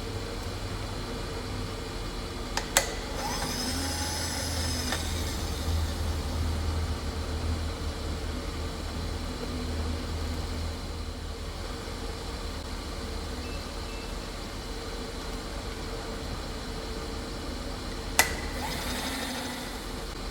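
Milling machine running with a steady hum, and two sharp metallic clicks, about three seconds in and near the end; the first is followed by a brief high ringing.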